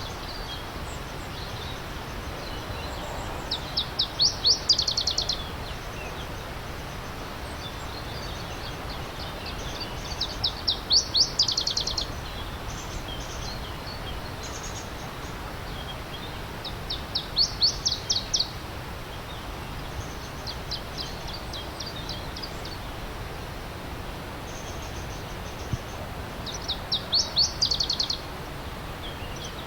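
A songbird repeating the same short song four times, each a quick, high run of notes lasting about a second and a half, over the steady rush of a stream.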